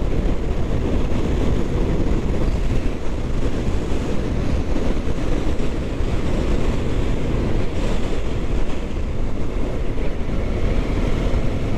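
Steady wind rush on a rider's microphone while riding a Kawasaki Ninja 650 motorcycle, with its engine and road noise underneath.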